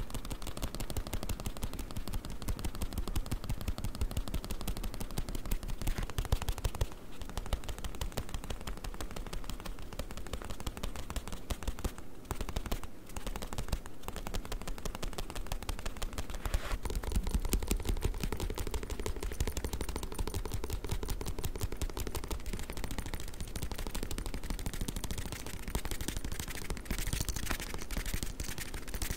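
Fast, continuous tapping on a book, a dense stream of quick clicks.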